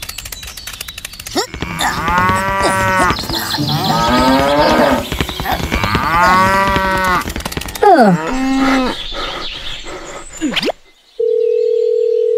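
Cows mooing, several long drawn-out moos one after another. Near the end they give way to a steady telephone dial tone.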